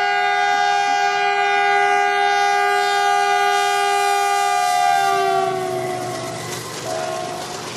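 WDG4G diesel locomotive horn blowing one long, loud blast that holds steady for about five seconds, then falls slightly in pitch and fades. A short second note sounds near the end as the train's running noise rises.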